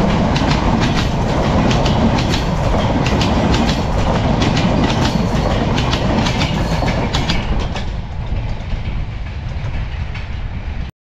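Chitra Express intercity passenger coaches rolling past close by, their wheels clacking over the rail joints with a heavy rumble. After about eight seconds the clatter fades as the last coach draws away down the line.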